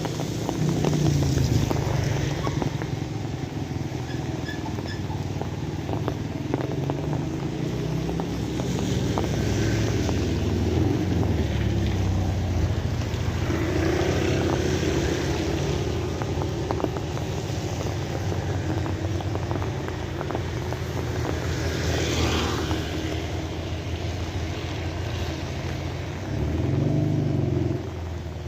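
Steady rain with many close drips and patters, over a low engine rumble from passing motor vehicles that swells and fades several times, loudest about a second in and near the end.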